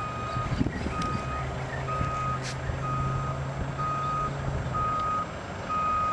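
A vehicle's reversing alarm beeping about once a second, each beep a steady high tone about half a second long, over the low hum of an engine that fades out about four and a half seconds in.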